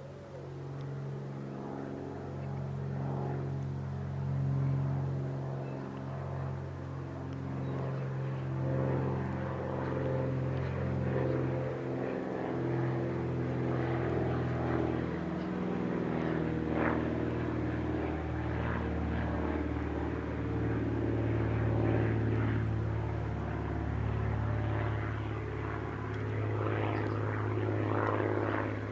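A steady engine drone of several pitched tones that waver slightly, growing louder over the first few seconds.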